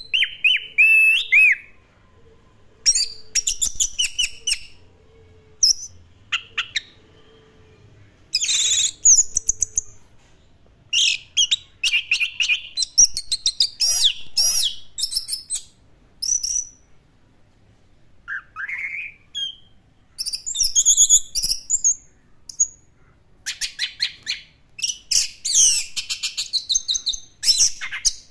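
Orange-headed thrush in full song: bursts of rapid, varied whistles and trills, each phrase lasting a second or two, with short pauses between them.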